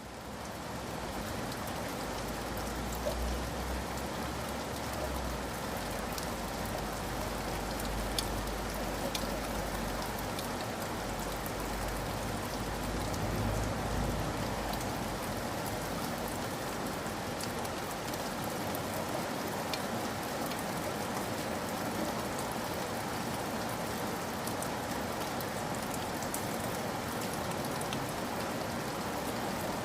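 Steady rain falling, with scattered individual drops tapping sharply, swelling in over the first second. A low rumble runs underneath for the first half or so, then fades out.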